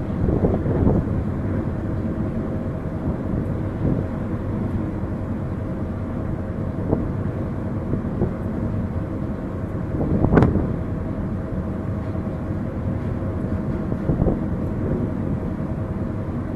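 Ferry engine running steadily: a low rumble with a constant hum, broken by a few short knocks, the loudest about ten seconds in.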